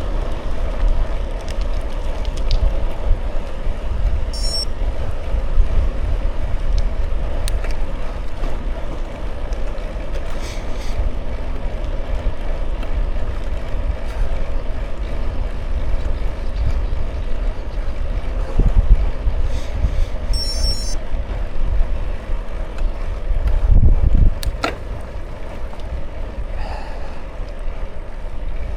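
Wind buffeting the microphone of a camera on a moving bicycle: a steady low rumble that swells in two stronger gusts, about two-thirds of the way through and again near the end, with a few faint clicks.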